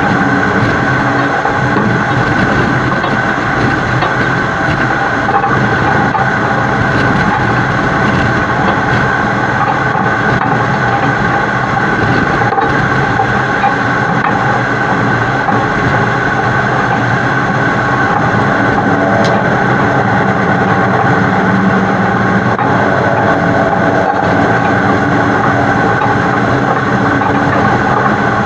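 Heavy-haul tractor-trailer carrying a super load, running at highway speed and heard from a camera mounted on the truck's side: a steady, loud mix of engine, tyre and wind noise with several held tones, and a few faint clicks.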